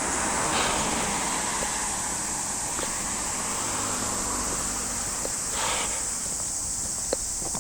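Outdoor ambience while walking: a steady high-pitched hiss over a broad background noise, with a few faint ticks and a brief swell of noise near the start and again a little past the middle.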